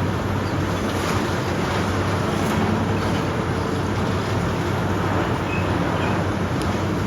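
Heavy demolition machinery running with a steady diesel drone, with a few faint knocks now and then.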